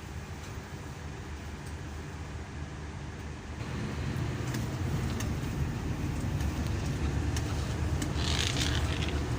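Scania K340EB coach's diesel engine and road noise heard from inside the passenger cabin, growing louder about a third of the way in as the coach pulls harder. A short hiss comes near the end.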